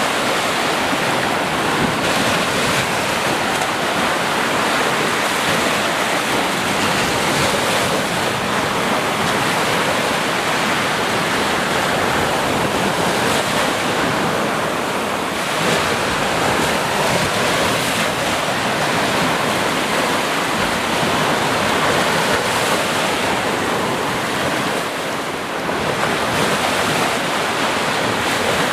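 Sea surf washing on the shore: a continuous rushing of breaking waves that eases briefly about halfway through and again near the end.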